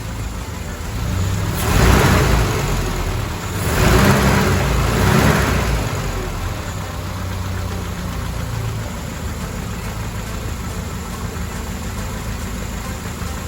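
Mercedes-Benz W124 230E's four-cylinder petrol engine revved up twice, then settling back to a steady idle.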